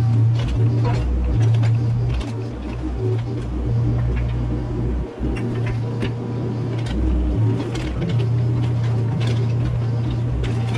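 Mini excavator's diesel engine running and working, its low drone shifting pitch as the hydraulics load it, with scattered knocks and scrapes throughout.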